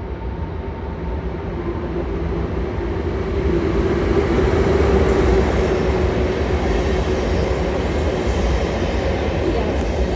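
ICE 1 high-speed train running along the track. The noise grows louder over the first four seconds or so and then holds steady, with a steady hum under the rumble of the wheels.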